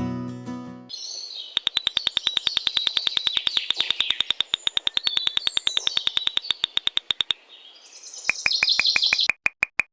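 Birds chirping, with a fast, even trill of about ten chirps a second for several seconds, then a shorter, lower run of chirps near the end.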